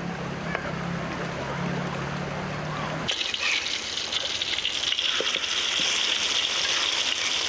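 Ground chili spice paste and cooking oil sizzling in a wok over a wood fire. The hiss starts suddenly about three seconds in, after a low steady hum.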